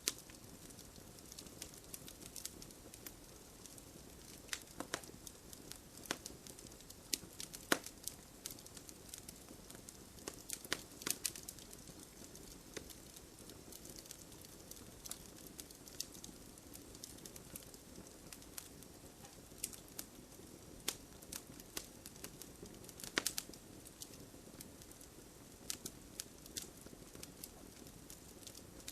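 Wood fire crackling in a fireplace: irregular sharp pops and snaps scattered over a soft steady hiss, the loudest snaps about 8, 11 and 23 seconds in.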